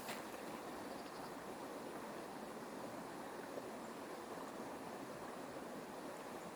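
A steady rushing noise that holds even throughout.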